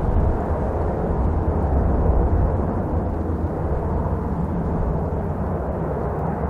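Jet airliner engines running loud and steady, heard through a heavy low rumble of strong wind on the microphone.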